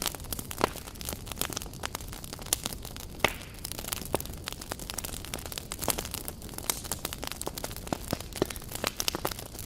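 Campfire crackling: wood burning with many irregular snaps and pops over a low steady rumble of the flames.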